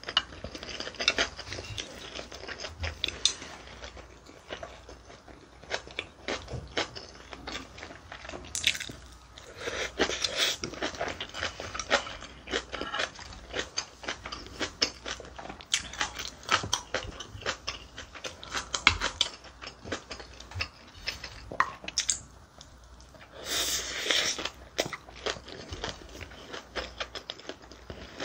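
Close-miked chewing of mixed bibimbap (rice with seasoned vegetables and gochujang): a steady run of small wet clicks and crunches from the mouth, with a few louder stretches.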